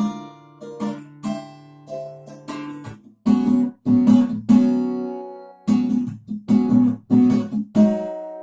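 Solo acoustic guitar played fingerstyle: single picked notes over a sustained bass note, then from about three seconds in a run of louder struck chords, the last one left ringing.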